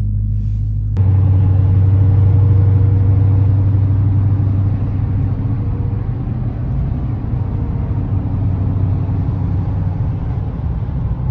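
Supercharged 6.2-litre HEMI V8 of a 2018 Dodge Challenger SRT Hellcat running while driving, heard from inside the cabin as a steady low rumble. It jumps louder about a second in.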